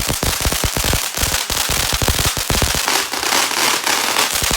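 TNT 'Mermaid' consumer firework going off: a dense, continuous run of rapid pops and bangs over steady crackling.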